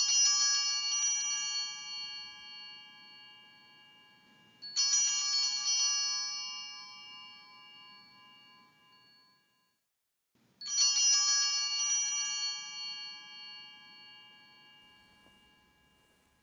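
Sanctus bells rung three times at the elevation of the host, each ring a short shake that then dies away slowly over several seconds.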